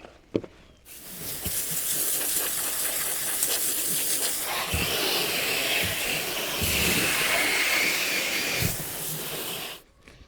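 Reciprocating saw (Sawzall) running steadily for about nine seconds, cutting through a pork carcass, starting suddenly about a second in and cutting off just before the end.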